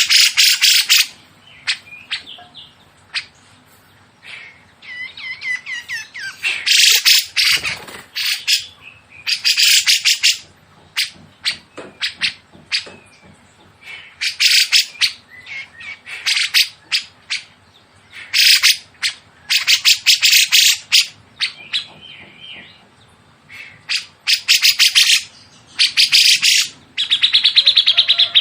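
Songbird singing in bursts of rapid, harsh, tightly repeated notes, each burst about a second long and repeated every couple of seconds, with short single chirps in between.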